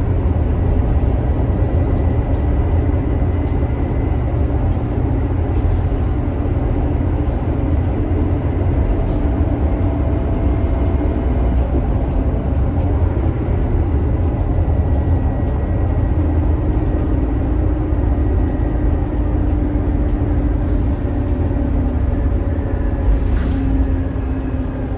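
2012 Scania K280IB bus with its DC9 five-cylinder turbodiesel running, a steady heavy rumble with faint whining tones that slowly shift in pitch. A single sharp click comes near the end.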